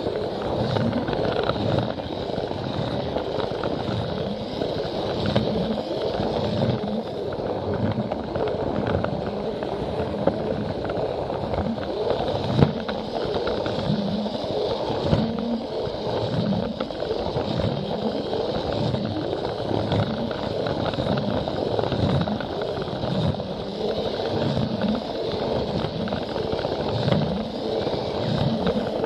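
Plarail toy train running along plastic track: its small battery motor and gears whirring steadily, with a continual uneven clatter of the wheels over the track joints and a few sharper clicks.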